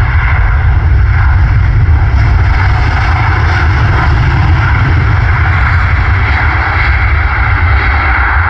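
Boeing 737 airliner's jet engines running loud and steady during landing, a continuous roar over a deep rumble.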